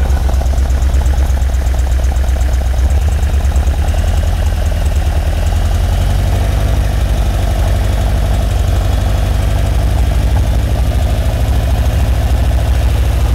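A 1978 Ferrari 308 GTB's carbureted V8 idling unevenly, not running on all eight cylinders. It smooths out as gasoline is sprayed into its Weber carburetors, which shows that gummed-up carburetors starving some cylinders of fuel are at fault, not the ignition.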